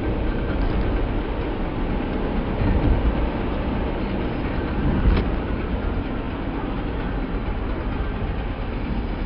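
Steady low rumble of a truck's engine and road noise heard inside the cab while driving, with a single thump about five seconds in.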